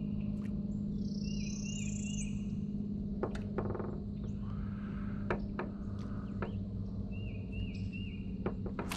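Wild birds calling: a rising whistle and a run of short repeated chirps about a second in, and another run of chirps near the end. Under them runs a steady low hum, with a few sharp clicks.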